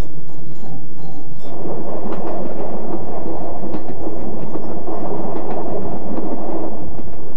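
Passenger train running, a loud steady rumble and rattle of the moving carriages that sets in about a second and a half in. Before it, a few faint ringing notes of a steward's hand-held dinner chime, struck to call passengers to tea.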